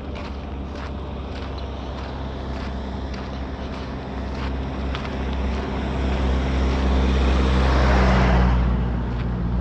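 A motor vehicle with a steady engine hum comes closer and passes about eight seconds in, its tyre noise swelling and then fading. Faint footsteps tick along in the background.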